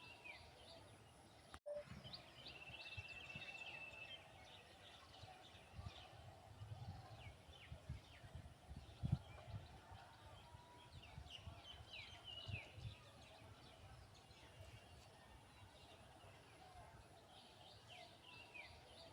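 Faint birdsong: scattered short chirps and a rapid trill of repeated notes, with intermittent low rumbles like wind on the microphone.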